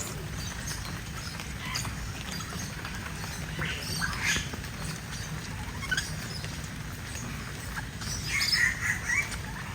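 Birds squawking in short, scattered calls, loudest about four seconds in and again near the end, over a steady low background rumble.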